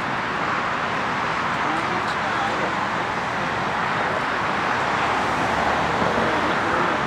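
Jet engines of a DHL Boeing 757-200 freighter, a steady loud rushing noise with a few faint chirps in the background.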